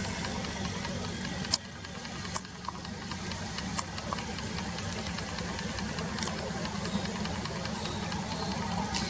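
A steady low hum, like a running engine, with a few short sharp clicks, the loudest about a second and a half in.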